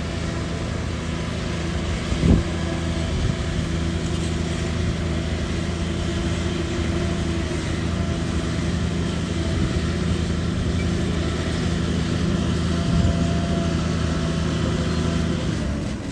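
Shantui DH17 bulldozer's diesel engine running steadily under work, with a single sharp knock about two seconds in.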